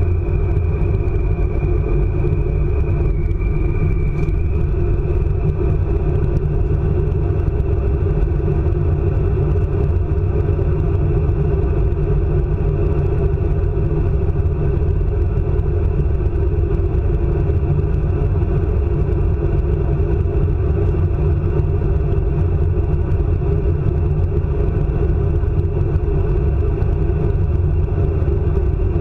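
ICE high-speed train running at speed, a steady loud rumble of wheels and running gear, with a faint high whine that fades out about five seconds in.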